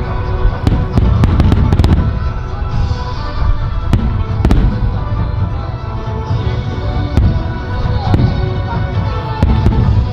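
Aerial fireworks show: deep booms of shells bursting and sharp cracks, thickest about a second in and more scattered after, with music playing underneath.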